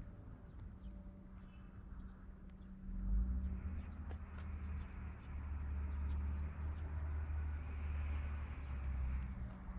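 Heavy truck engine running, growing louder about three seconds in as a deep rumble sets in and easing off near the end. Birds chirp faintly.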